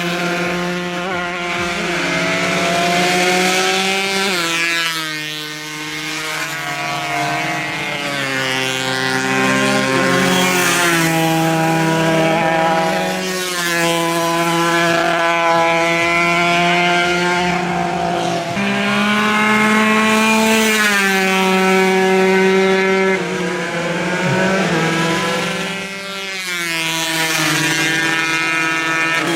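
Several 140 cc two-stroke racing motorcycles running hard at high revs, their engine notes repeatedly climbing in pitch and dropping back as they shift and slow for corners, with more than one machine heard at once. The sound falls off briefly a few seconds in and again near the end.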